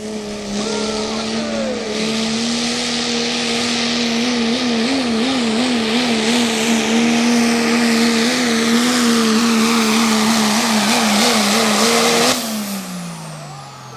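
Turbo diesel pickup at full throttle pulling the sled, its engine note held high with a loud hissing rush over it and the revs wavering up and down in the middle of the run. About twelve seconds in the driver lifts off and the revs fall away.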